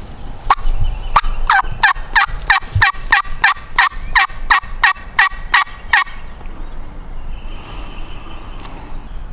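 Turkey yelping: a long, even run of about sixteen yelps, roughly three a second, each note dropping in pitch, ending about six seconds in.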